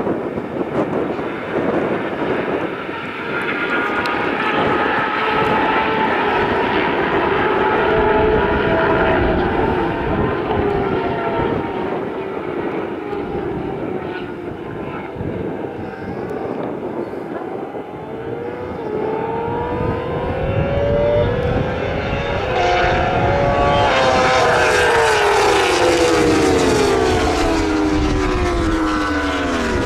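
Racing motorcycles, superbikes and supersport 600s, running at speed on a road circuit, their engines rising and falling in pitch through gear changes as they pass. From about two-thirds of the way in, several bikes are heard at once, louder and overlapping as a group goes by.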